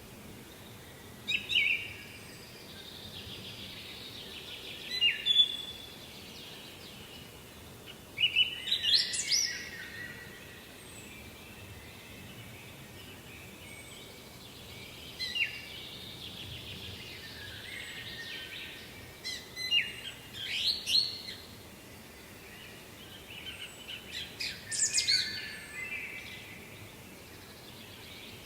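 A songbird singing short phrases, about six of them every three to five seconds, over a faint steady background noise.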